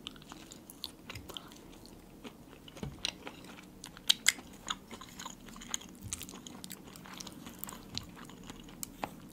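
Close-miked chewing of a bite of dark bread, with many small wet mouth clicks and lip smacks; a few sharper smacks come about four seconds in.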